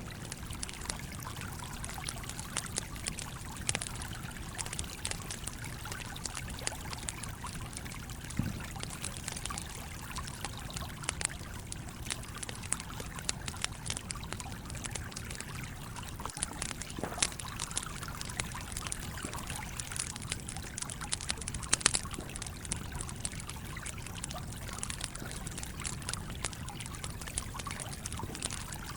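A stream trickling and flowing steadily, with a wood campfire crackling over it in scattered sharp pops; the loudest pop comes about 22 seconds in.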